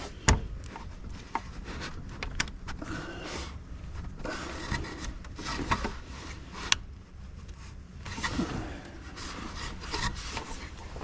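Irregular rubbing and scraping strokes as the coolant pipe's connection and O-ring seat are cleaned by hand with fine sandpaper, broken by a few sharp clicks and knocks of parts being handled. The loudest click comes just after the start.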